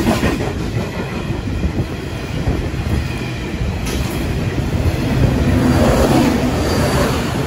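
Freight train of hopper wagons passing at speed, wheels clattering over the rails in a steady rumble. A trailing locomotive passes about five to seven seconds in, and the sound swells louder then.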